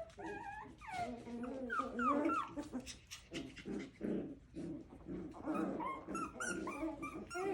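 Six-week-old Coton de Tulear puppies whining and yipping in many short, high rising-and-falling calls, mixed with low growls as they play. A few quick clicks come about halfway through.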